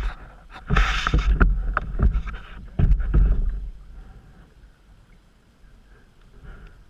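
Canoe paddling: splashing paddle strokes with sharp knocks, then quieter for the last few seconds.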